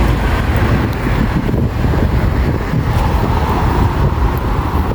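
Wind buffeting the microphone: a loud, steady, low rumble that flutters unevenly, with a faint hiss above it.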